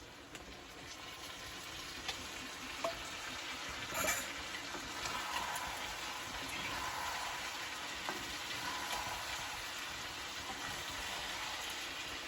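Food frying and sizzling, getting louder over the first few seconds, with a few light clicks, like a utensil against the pan, scattered through it.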